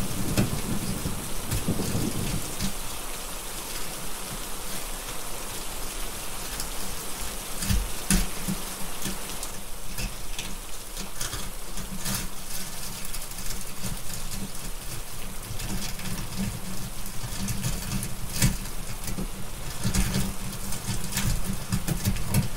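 Steady rain with scattered sharp crackles from a wood fire. A low thunder rumble fades away in the first couple of seconds.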